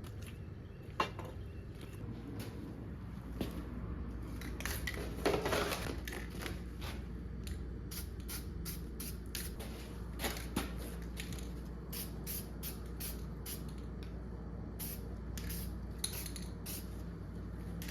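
Metal tools and engine parts clinking and clattering as they are handled, with sharp ticks about a second in and again around ten seconds, over a steady low hum.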